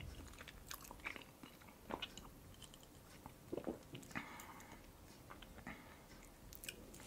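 Soft, faint chewing of a bite of red-caviar sandwich: quiet wet mouth clicks and smacks, with a few slightly louder ones around the middle.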